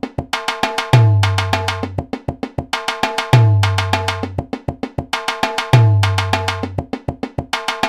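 Sampled Indian hand drums from the SwarPlug 4 plug-in playing a looped rhythm: a deep, ringing bass stroke that sags slightly in pitch, three times about two and a half seconds apart, each followed by a run of quick, bright, pitched strokes.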